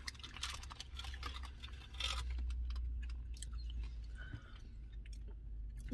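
Close-up chewing and biting of a taco, with many small wet mouth clicks and crackly handling noises, louder about two seconds in, over a low steady hum.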